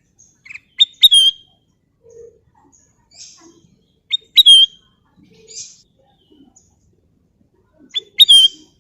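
Kutilang emas bulbul whistling: three short, loud phrases a few seconds apart, each a quick sharp note followed by a clear bent whistle.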